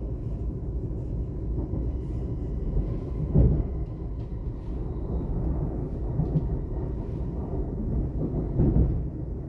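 Class 422 electric multiple unit running, heard from inside, with a steady low rumble of the wheels on the track. Two louder bumps come, about three and a half seconds in and near the end.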